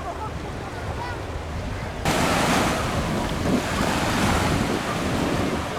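Sea waves on a beach: a wave breaks suddenly about two seconds in and its wash runs on loudly after it.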